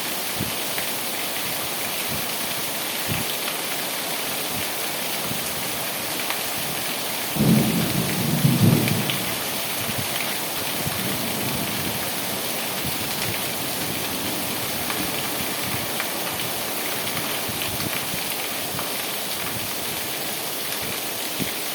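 Steady heavy rain falling, with scattered drop ticks. About a third of the way in, a loud low rumble rises over it for a second or two, then fades.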